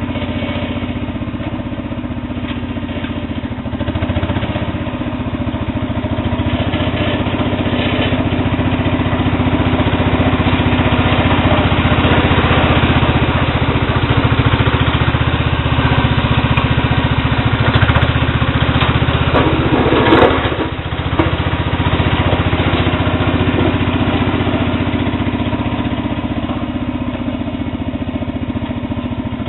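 Sears Suburban SS12 garden tractor's single-cylinder Tecumseh engine running with no muffler, its level rising and easing as it plows ice-crusted snow. A brief scraping clatter a little past two-thirds of the way through.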